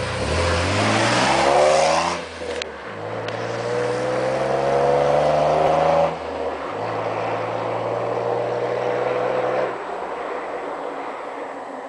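Exhaust of a 2008 Jeep Wrangler JK's 3.8-litre V6 pulling up through the gears. The note climbs in pitch, drops back about two seconds in and again about six seconds in, pulls steadily once more, then eases off about ten seconds in and fades away.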